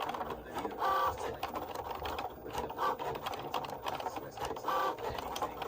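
Cricut Joy cutting machine running, its motors giving short pitched whines about every two seconds over a steady low hum as it cuts.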